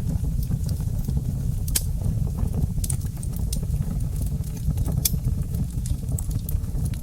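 Wood fire burning in a fireplace: a steady low rumble of flames with irregular sharp crackles and pops throughout, and a few louder snaps.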